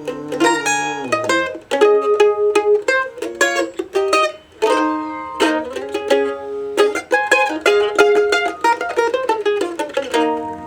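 Acoustic plucked-string instrument playing an instrumental break alone: quick picked notes and chords, with a falling run of low notes about a second in.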